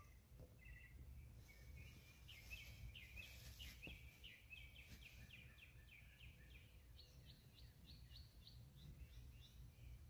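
Faint bird chirping: a long run of quick repeated chirps, about three a second, that turn higher in pitch in the later part. A steady low rumble runs underneath.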